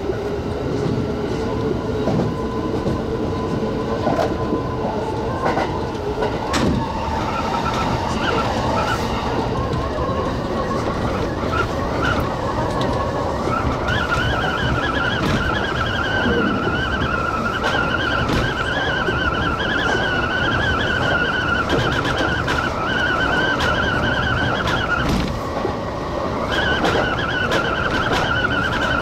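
A Kintetsu express electric train running along the line: a steady rolling noise with occasional clicks from the track. About halfway through, a wavering high-pitched tone joins it, drops out for a moment near the end, then comes back.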